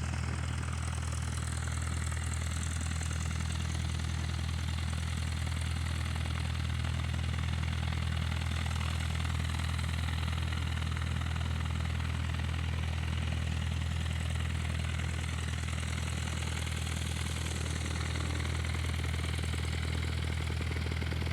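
An engine running steadily at an even, unchanging pitch: a constant low drone with no revving.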